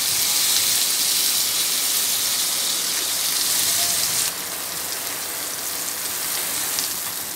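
Mustard oil sizzling steadily in a frying pan around a tilapia tail, tomatoes, garlic and green chillies. The sizzle drops abruptly to a lower level about four seconds in.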